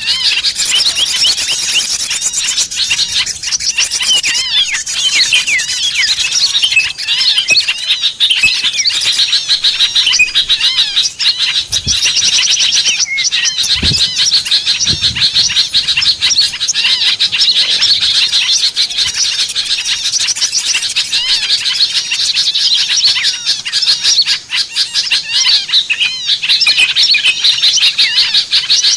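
A dense chorus of many small songbirds chirping and twittering at once, with rapid trills and high sharp calls overlapping without a break. It is a bird-lure (pikat) recording of small birds calling noisily.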